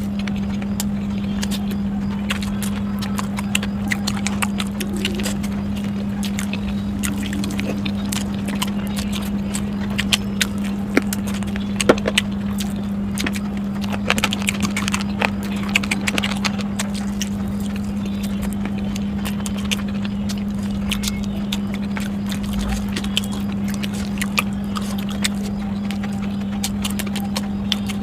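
A person chewing food close to the microphone, with many short, sharp mouth clicks, thickest in the middle. A steady low hum runs underneath throughout.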